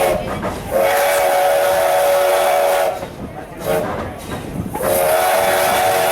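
Steam whistle of Strasburg Rail Road locomotive No. 89, several notes sounding together as a chord, blown in blasts: a long one, a short toot, then another long one held to the end, over steam hiss. The long-long-short-long pattern is the standard grade-crossing signal.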